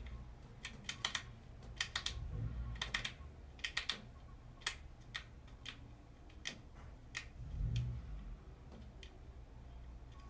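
Sharp, short clicks and knocks from a Fox DHX2 rear shock under test, coming irregularly in small clusters about once a second, with a couple of low dull thumps among them.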